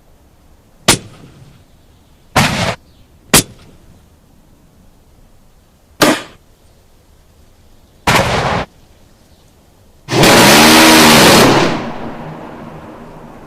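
Gunshot sound effects from military firearms: single sharp shots and short bursts of fire with gaps of one to three seconds. Near the end comes a louder continuous stretch of about a second and a half that fades slowly away.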